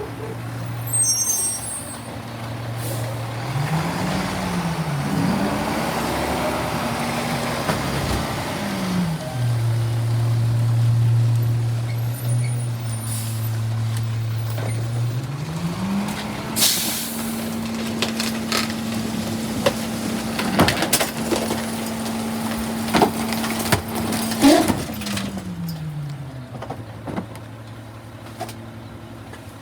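Garbage truck engine idling, revving up twice briefly a few seconds in, then revving up and holding high for several seconds before dropping back to idle near the end. A short blast of air hiss comes as it speeds up, and sharp knocks and bangs sound while it runs high.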